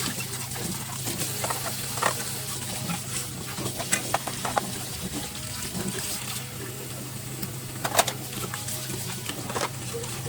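Tap water running in a kitchen sink during dish washing, with scattered clinks and knocks of dishes, the sharpest about eight seconds in.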